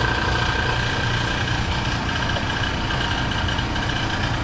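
R290 (propane) refrigeration condensing unit running: compressor and condenser fan giving a steady hum with a faint steady whine on top.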